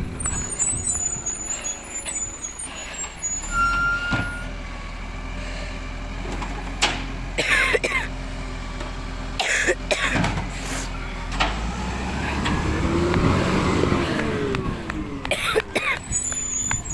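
Waste collection truck's diesel engine running, with several sharp air-brake hisses. The engine revs up and back down about twelve seconds in, and there is a short beep-like tone about four seconds in.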